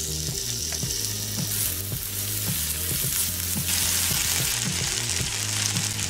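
Raw chicken pieces sizzling in hot vegetable oil in a frying pan as they are stirred with a wooden spatula. Soft background music plays underneath.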